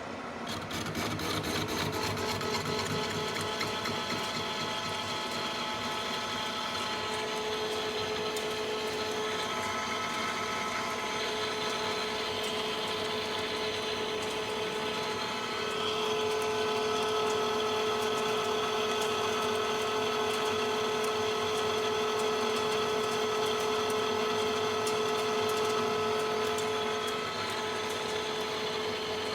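Manual lathe running under power feed, its carbide insert facing a plasma-cut steel plate: a steady gear-train whine over the cutting noise, with a ringing tone that comes in after several seconds and grows stronger about halfway through before easing near the end. The insert is cutting through the hard plasma-cut edge zone.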